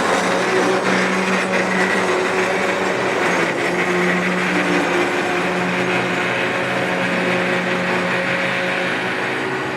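A train running close by: a locomotive's steady engine drone over wheel and rail noise, slowly fading near the end.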